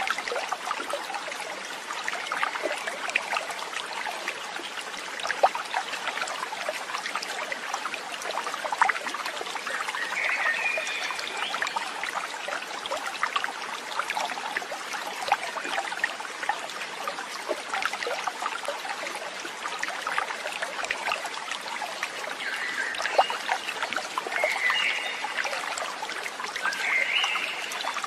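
Stream water trickling and babbling steadily. A few short, high chirps come in about ten seconds in and three times near the end.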